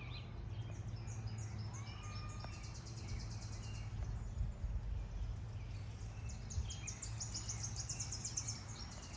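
Outdoor birdsong: rapid high trills that come in runs of a second or two, with a few short whistled notes and glides. Underneath is a steady low rumble.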